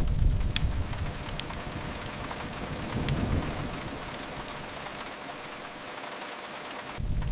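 Steady rain hiss with scattered sharp crackles of a wood fire. A low rumble is strong at the start, swells again about three seconds in, and comes back abruptly near the end.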